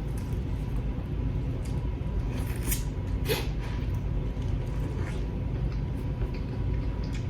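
Someone eating seafood, with a few soft mouth clicks about three seconds in over a steady low rumble.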